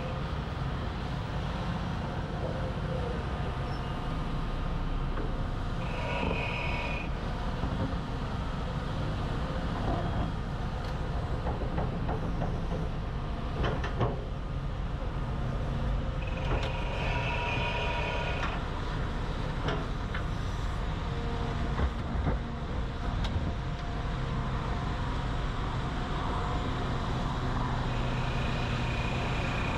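Heavy diesel construction machinery running steadily, with scattered metallic clanks and a few short high-pitched squeals.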